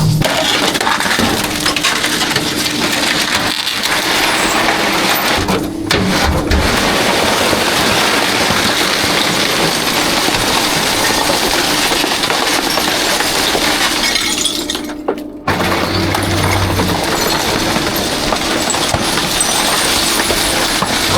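Trash crashing and glass bottles shattering as the contents are dumped and compacted in a rear-loader garbage truck's hopper, over a steady hum from the truck, with two brief breaks in the noise.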